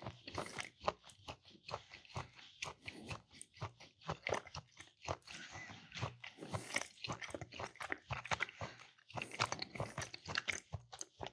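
A person chewing a mouthful of charcuterie, cured meats and cheese, close to the microphone. It comes as a dense, irregular run of small wet clicks and smacks.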